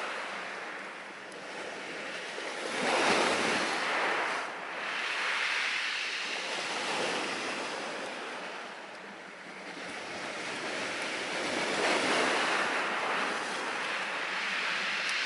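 Sea surf: waves washing onto the shore, swelling and ebbing, loudest about three seconds in and again about twelve seconds in.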